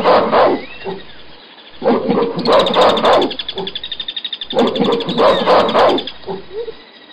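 Gorilla vocalizing in three similar bursts about two and a half seconds apart, each a rapid pulsing run lasting about a second and a half.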